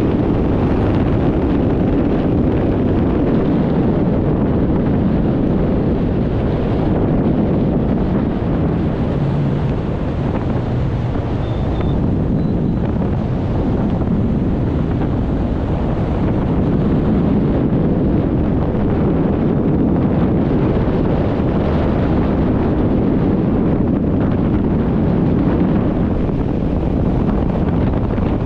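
Steady wind rushing over the microphone during a parachute descent under canopy.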